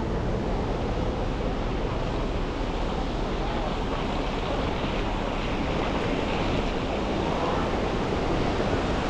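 Steady rushing noise of a car driving through snowy city streets: tyres on the road and the hum of traffic, with some wind on the microphone.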